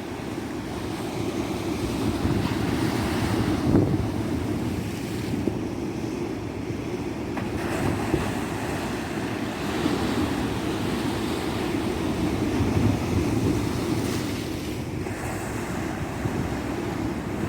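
Ocean surf washing on a beach, a continuous rushing that swells and eases every few seconds, loudest about four seconds in, with wind buffeting the microphone.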